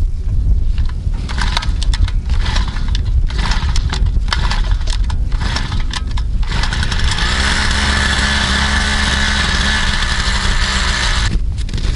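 Petrol-engined ice auger running at a steady pitch from about seven seconds in, cutting off shortly before the end, as it drills holes in the river ice. Before it, irregular knocking and crunching.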